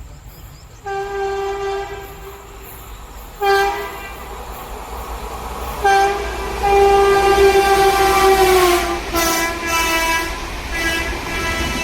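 Electric locomotive horn sounding a series of blasts: one of about a second, two short toots, then a long blast of about two and a half seconds that sags in pitch at its end, followed by several shorter, slightly lower blasts, over a low rumble of the train.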